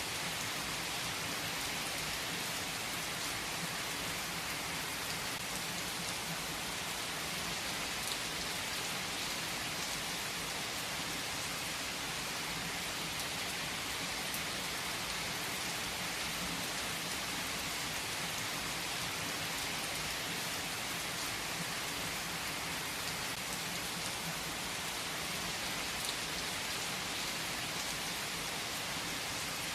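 Steady rain falling: an even hiss with a couple of sharper drop ticks.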